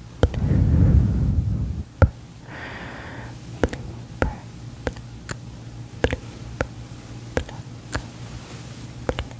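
Close-miked ASMR trigger sounds: a loud low noise for about two seconds, then scattered sharp clicks, one or two a second, at an irregular pace.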